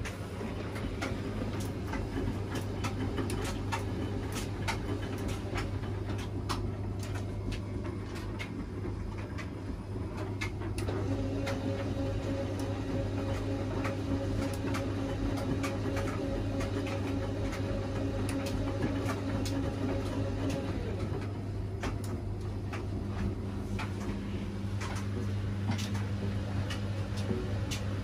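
Washing machine running mid-cycle: a steady motor hum with scattered light clicks and knocks. A motor whine comes in about a third of the way through and stops about ten seconds later, and a lower whine starts near the end, as the drum turns.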